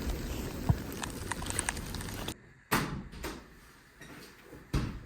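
Steady outdoor noise with a few light clicks that cuts off suddenly, then two sharp knocks about two seconds apart: a door being opened and shut as someone comes in.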